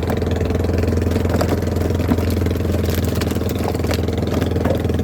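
A boat engine running steadily, a constant low hum, with a few faint clicks and knocks over it.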